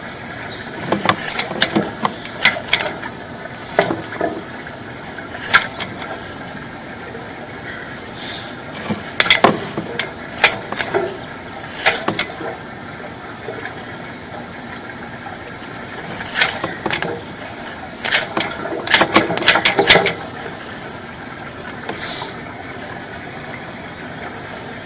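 Irregular sharp clicks and knocks, some in quick clusters, from sewer camera equipment being handled, over a steady low hum.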